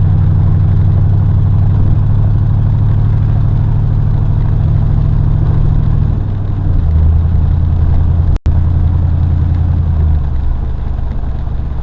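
Pickup truck engine running while driving, a steady low hum that shifts pitch a few times as the truck changes speed. The sound cuts out for an instant a little after eight seconds.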